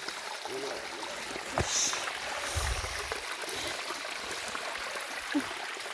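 Steady rushing water noise, with a sharp click about a second and a half in and a short low thud a second later.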